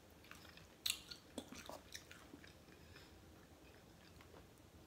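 Close-mic chewing of crispy oven-baked chicken wing: a sharp crunch about a second in, then a few smaller crunches over the next second, then soft chewing.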